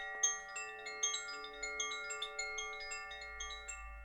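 Chimes ringing, with many light, irregular strikes and long overlapping tones that die away near the end.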